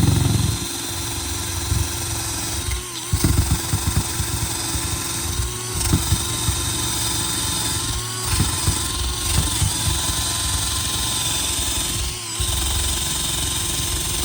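Ozito cordless drill spinning a wire brush attachment against old, cracked roof sealant, scouring it off the join. A steady motor whine that dips briefly in pitch several times as the brush loads up, over a rough scrubbing.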